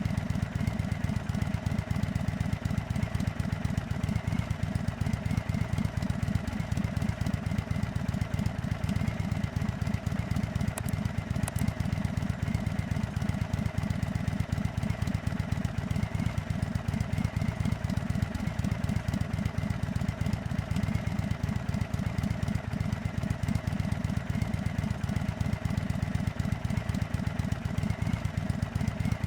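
2024 Indian Chief Dark Horse's air-cooled Thunderstroke 116 V-twin idling steadily, with an even, fast low pulse.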